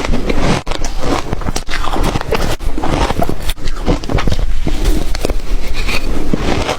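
Close-miked crunching of ice being bitten and chewed, a rapid run of crackling crunches with occasional swallows.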